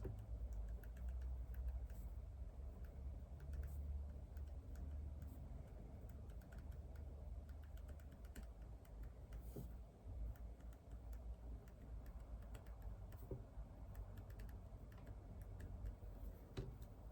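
Typing on a computer keyboard: soft, irregular key clicks in quick runs, faint under a low steady hum.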